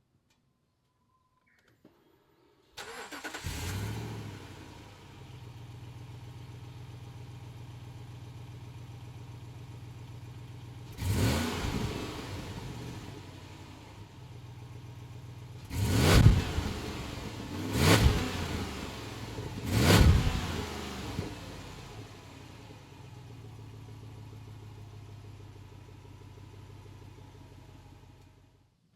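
Jeep Grand Cherokee 5.7-litre HEMI V8 through its stock exhaust: the engine starts with a brief flare, settles to a steady idle, is revved once and then blipped sharply three times about two seconds apart, idles again and is switched off near the end.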